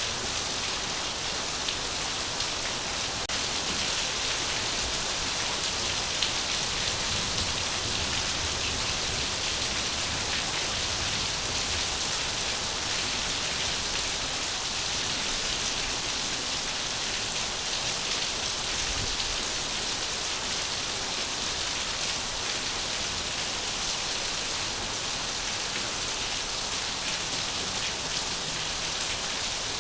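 Steady rain falling, a dense even hiss of drops pattering on a surface.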